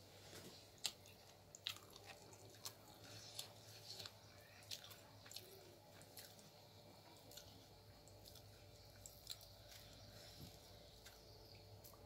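Faint, close-up chewing of uthappa with coconut chutney: soft wet crunches and mouth clicks, most frequent in the first half.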